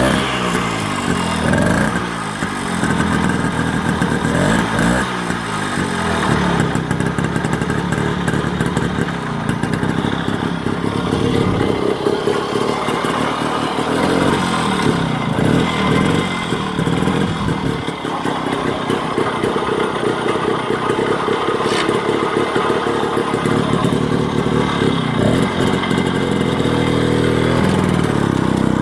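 A 1955 Sun motorcycle's 98cc Villiers single-cylinder two-stroke engine running. Its revs rise and fall repeatedly in the first few seconds, then hold steadier with smaller swings.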